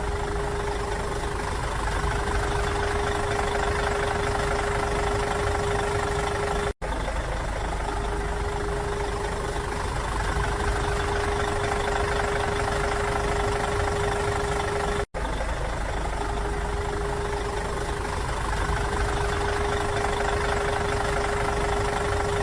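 Steady engine-like running sound with a constant hum. It is a clip repeated three times, with brief silent cuts between the repeats.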